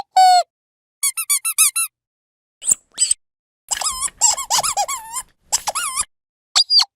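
Rubber squeaky dog toy squeezed repeatedly, giving quick runs of short squeaks that bend up and down in pitch, with short silent gaps between the runs and a faster flurry of squeezes in the middle.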